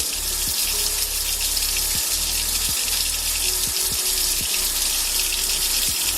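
Tap water running steadily into a sink while a makeup sponge is rinsed under the stream.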